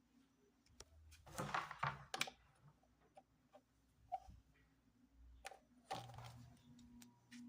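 Clicks and short rustling bursts from a Mondial Premium wall fan being handled, then a low steady hum with a soft regular pulsing that starts about six seconds in as the fan runs.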